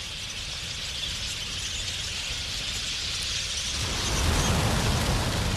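A large flock of wild budgerigars chattering and chirping together, growing louder, with a low rushing noise joining about four seconds in.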